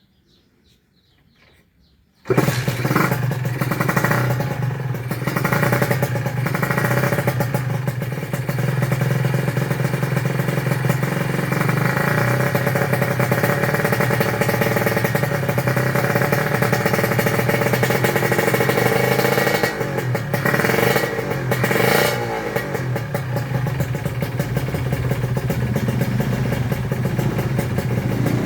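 Motorcycle engine running loudly and steadily, cutting in suddenly about two seconds in after near quiet, with a short dip and change near twenty seconds. It has the rough 'ngorok' (snoring) sound.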